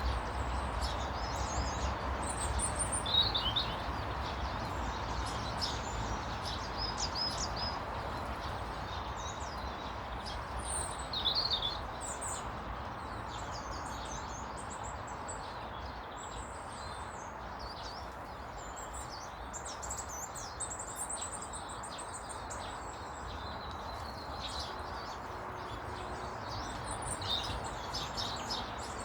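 Several small birds chirping and twittering in short, scattered calls over a steady background hiss.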